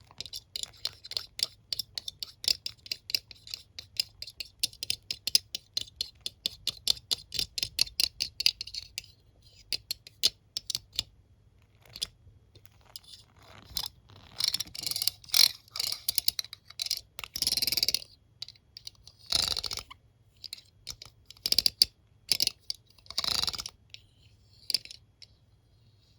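Comb teeth and hairbrush bristles being handled close to the microphone. A fast run of small clicks lasts about nine seconds, then thins to scattered clicks, and in the second half gives way to several longer scratchy strokes.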